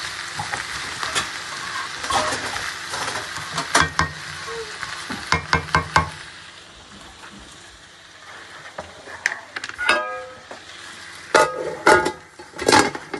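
Onions frying in hot oil in a pot, stirred with a spoon that clicks and scrapes against the pot. The frying hiss dies down about halfway, and a few sharper knocks come near the end.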